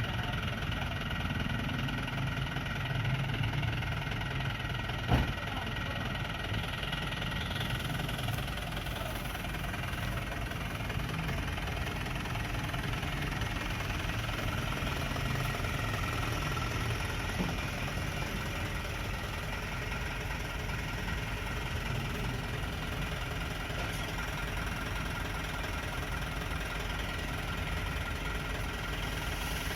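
Dump truck's diesel engine running steadily, its low rumble heavier for the first several seconds, with one sharp knock about five seconds in.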